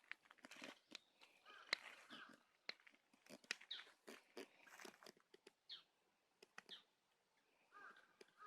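Faint, irregular crackling and popping of a bonfire of dead branches: scattered sharp snaps, a few a second.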